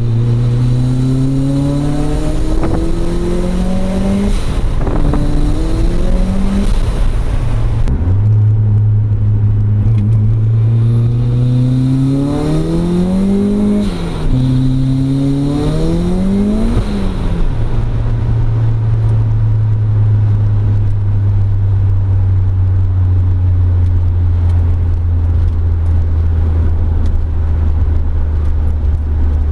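Turbocharged Mazda Miata four-cylinder engine through a 3-inch catback exhaust, pulling under boost in two runs. Each time the pitch rises and breaks at each upshift. It then settles to a steady low cruise for the last ten seconds or so.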